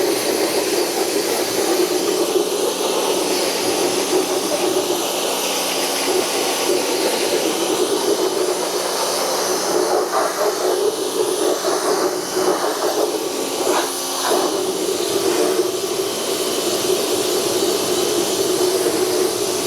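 Pressure washer running steadily, its high-pressure jet hissing as it rinses wheel cleaner off a truck's steel wheel rim. The spray sound shifts in the middle as the jet moves across the rim.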